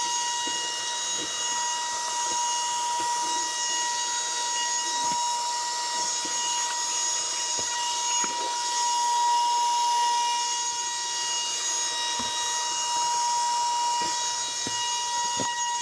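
Bayu cordless handheld car vacuum running steadily: a high motor whine over a hiss of suction, with faint scattered ticks.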